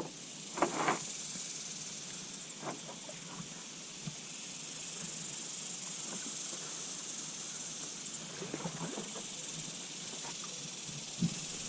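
Steady high-pitched hiss with a few light knocks and taps on a kayak: a pair just under a second in, another near three seconds, a cluster around eight and a half seconds and one more near the end.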